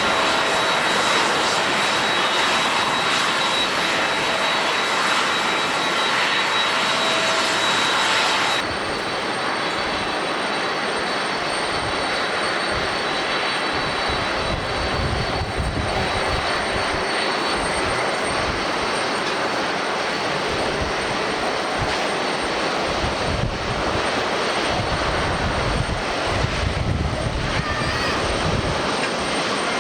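Jet airliner engines at close range: a dense roar with a steady high whine that changes abruptly about eight seconds in to a lower, duller rumble with a thin high tone, swelling and fading unevenly.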